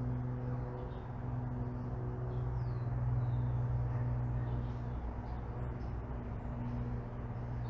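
Residential street ambience: a steady low mechanical hum, like a vehicle or machine, under faint, scattered bird chirps.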